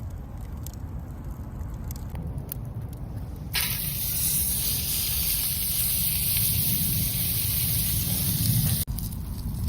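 Wood fire crackling with sparse sharp pops, then about three and a half seconds in a loud steady sizzle starts as meat cooks over the fire. The sizzle cuts off abruptly near the end.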